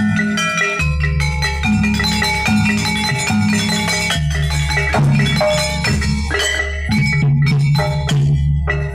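Live jaranan music from a gamelan-style ensemble: struck metallophones play a busy pattern of notes, with drum strokes and long held bass notes underneath.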